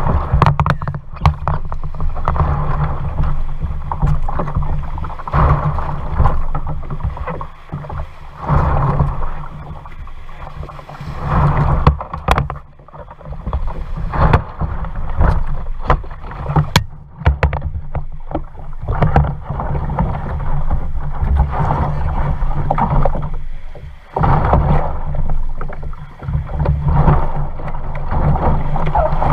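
Kayak paddling: swishing paddle strokes in the water every two to three seconds, over a constant low rumble, with a few sharp knocks.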